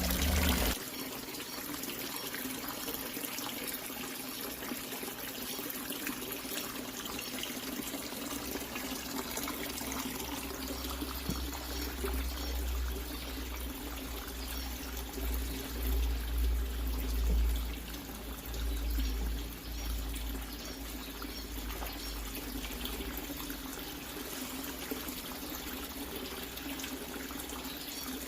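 Water running steadily into a converted refrigerator used as a fish tank as it is filled to the top.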